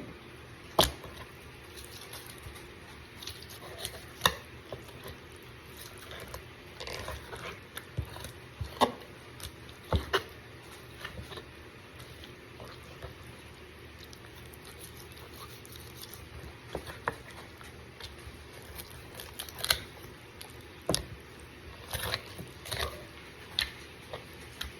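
Kitchen food-preparation handling noises: scattered clicks, knocks and light scraping at irregular intervals over a steady low background hum.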